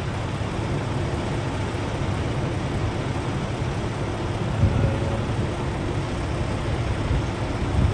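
Steady low rumble and hiss of an idling vehicle engine, with a brief thump a little past halfway.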